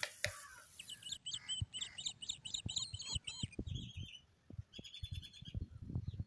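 A bird chirping in quick runs of short, sharp chirps, about four a second, with a pause between runs, over scattered low thumps. It opens with a brief hiss of water sprayed from a hand spray bottle.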